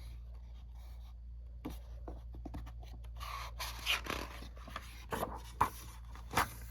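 Paper rustling and scraping with small clicks, the sound of a book's pages being handled and turned, over a low steady hum.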